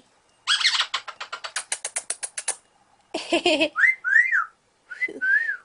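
Eclectus parrot making a rapid run of sharp clicks, about ten a second, for some two seconds, then a short raspy note and two pairs of short whistles that rise and fall.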